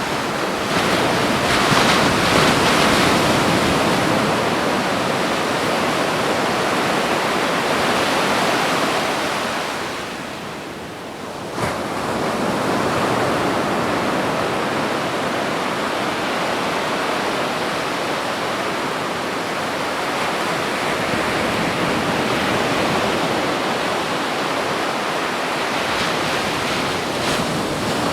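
Ocean surf washing onto a beach in a continuous rush of water noise. It swells in the first few seconds and eases into a brief lull about ten seconds in, then builds again and holds steady.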